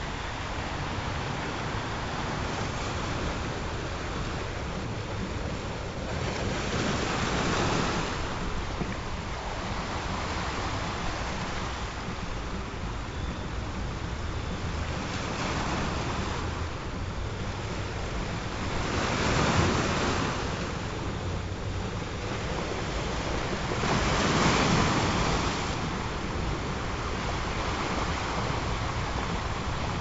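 Ocean surf: a steady wash of waves on a shore, swelling louder several times as waves break.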